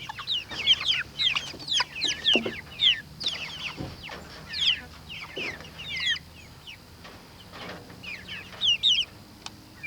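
A flock of Cornish Cross meat chickens peeping and clucking: many short, high calls that slide down in pitch, scattered throughout.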